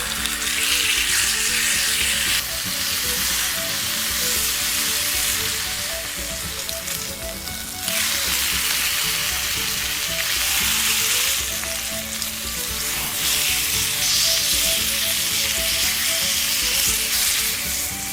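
Thick-cut bacon sizzling as it fries in a pan over a campfire; the hiss swells and eases every few seconds.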